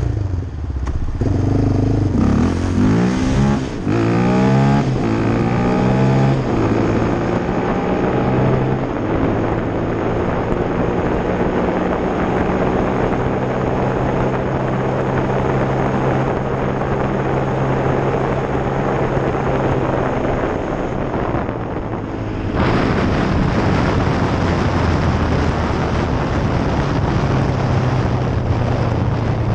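Yamaha Raptor 700 ATV's single-cylinder engine accelerating hard, its pitch climbing again and again through the gears, then running steadily at speed. About two-thirds of the way in it turns louder, with more rushing noise.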